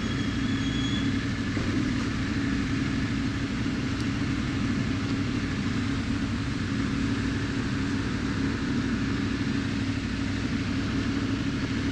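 Motorcycle engine running at a steady speed on the road, with wind and road noise.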